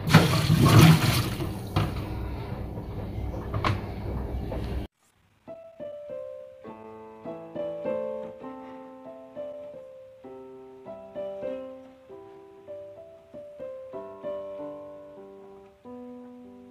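A rushing noise with a few knocks for about five seconds, cut off abruptly; after a short silence, solo piano music plays a gentle melody.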